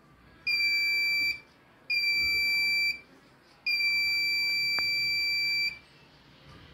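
Electronic buzzer beeping three times at one steady high pitch: two beeps of about a second each, then a longer beep of about two seconds.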